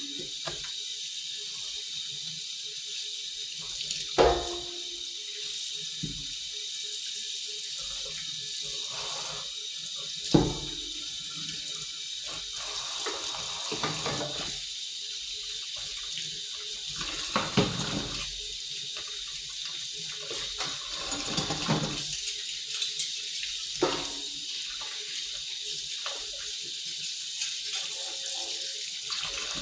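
Water running steadily from a tap into a sink, with a few knocks and clatters of items being handled.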